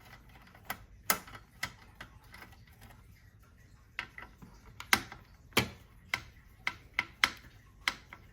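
Irregular sharp clicks and taps of small parts being handled while a printer's main board is unscrewed and unplugged, coming thicker and louder in the second half.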